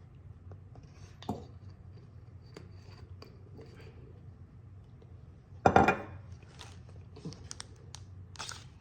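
Light clinks and taps of a utensil against a bowl while hot sauce is mixed into ramen noodles, with one louder clatter about six seconds in.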